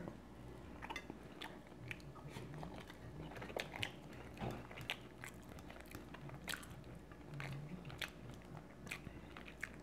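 A person chewing food close to the microphone, with scattered small wet clicks and crunches of the mouth every half second or so.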